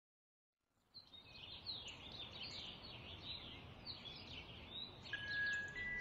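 Many small birds chirping in quick, falling notes over outdoor ambience, starting about a second in. Near the end, soft bell-like musical tones begin.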